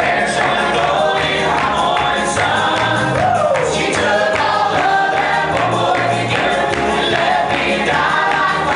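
A group of voices singing together over an upbeat accompaniment with a steady beat: live music from a song-and-dance number.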